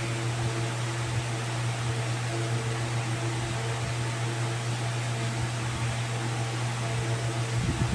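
Steady mechanical hum with an even hiss underneath and a few faint steady tones above it, unchanging throughout.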